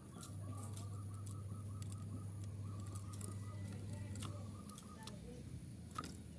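Zebra dove (perkutut) calling: a fast trilled, pulsing note for the first four seconds or so. A low steady hum and scattered clicks run alongside, with a sharper click about six seconds in.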